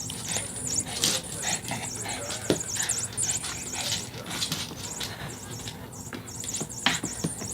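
A dog playing with a toy mouse: scattered irregular clicks, scuffs and knocks of claws and the toy moving about on the floor.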